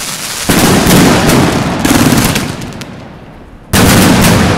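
Fireworks going off in quick succession: a dense run of bangs and crackling that fades, then a fresh loud burst about three and a half seconds in.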